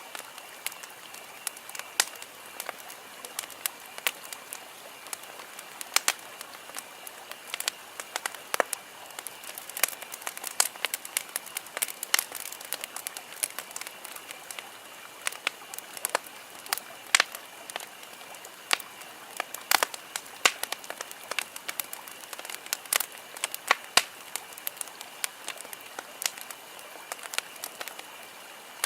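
Wood campfire burning, crackling and popping irregularly: many sharp snaps of varying loudness over a steady soft hiss.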